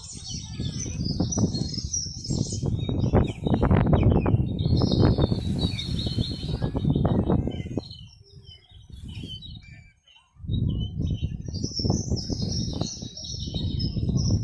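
Small birds chirping over strong low rumbling noise. The low noise drops away briefly about ten seconds in.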